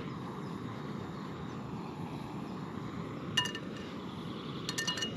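Metal camp cookware clinking as a pan is handled on a small gas camping stove: one sharp ringing clink about three and a half seconds in, then a quick run of clinks near the end, over a steady low rushing noise.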